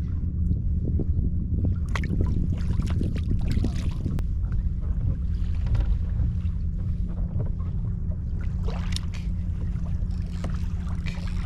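Small outboard motor running steadily at an even pitch, with water splashing and lapping against the hull.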